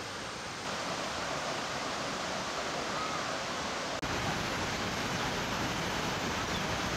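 Steady rushing of water, an even hiss with no distinct strokes. It steps up in loudness about a second in, and again at about four seconds just after a very brief break.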